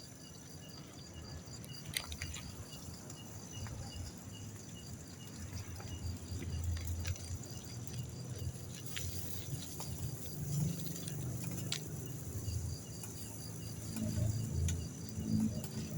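Night insects, likely crickets, chirping in a steady rhythm of about three chirps a second. Under them is a low, uneven rumble that grows louder in the second half, with a couple of sharp clicks.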